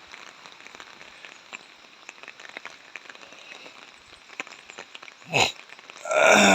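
Light rain falling, a soft steady patter with scattered drops ticking close by. Near the end come two short calls that fall in pitch, the second louder and longer.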